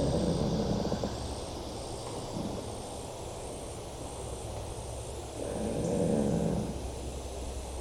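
Tree trunks creaking and groaning as they rub against each other, with one long low groan at the start and another beginning about five and a half seconds in. The eerie sound comes from trees leaning into one another, which the hiker thinks may be the wind moving them.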